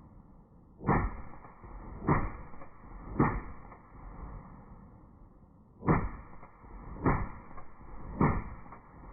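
Six gunshots in two strings of three, about a second apart, with a pause of a couple of seconds between the strings. Each shot is a sharp crack with a short ringing tail.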